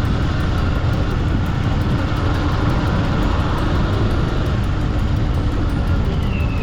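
Kawasaki Eliminator 500 motorcycle riding along at a steady pace: a continuous low engine and road rumble mixed with wind rush.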